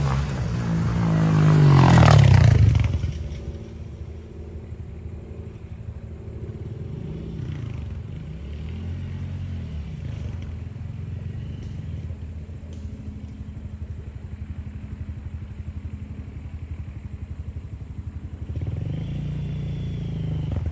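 Honda CRF125F big-wheel pit bike's single-cylinder four-stroke engine revving up to a loud peak about two seconds in, then dropping back to a low steady run with a few short throttle blips, the last near the end.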